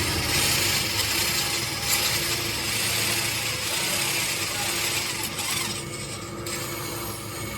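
Tractor engine running steadily, with a loud hiss over it that stops about six and a half seconds in.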